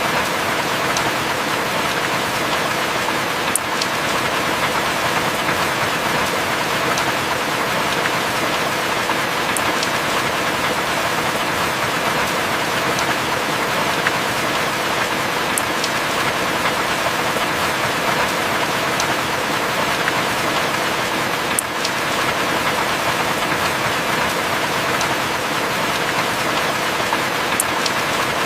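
Heavy rain falling steadily, with a faint sharp tick about every six seconds.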